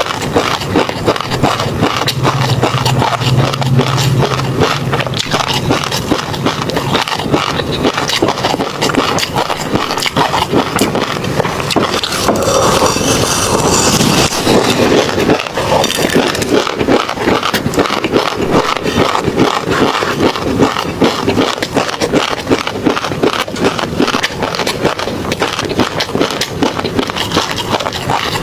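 Close-miked ASMR chewing of tobiko (flying fish roe), a dense, continuous run of tiny pops and crackles as the eggs burst in the mouth.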